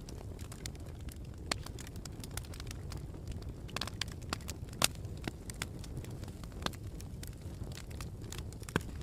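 Campfire burning, with irregular crackles and sharp pops from the wood over a steady low rumble; the two loudest pops come about halfway through and near the end.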